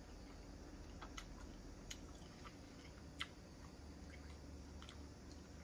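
Faint chewing: quiet mouth clicks and smacks, a handful of short sharp clicks with the sharpest about three seconds in, over a low room hum.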